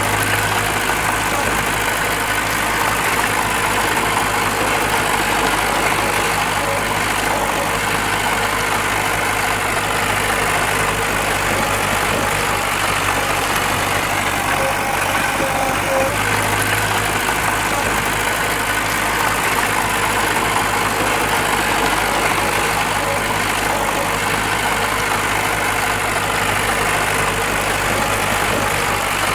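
Diesel engine of heavy earthmoving machinery running steadily, a constant low drone with no clear changes in revs.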